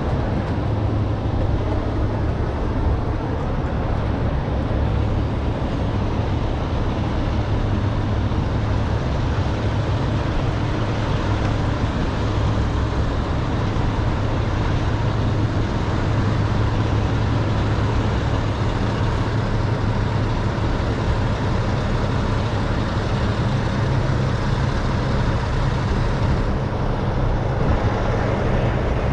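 Steady drone of a truck's engine and road noise heard from inside the cab while driving.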